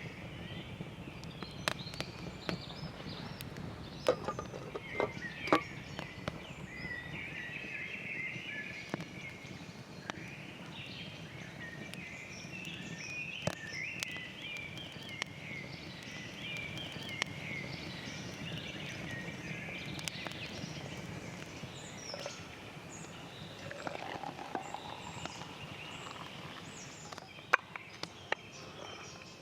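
Woodland birds singing and chirping continuously over a steady low rumble, with sharp clicks and knocks now and then, a few of them loud.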